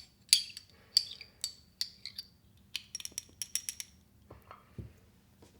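Hard kitchenware clinking: a run of sharp clinks with a brief ring, coming quicker for a moment about three seconds in, then a few duller knocks near the end.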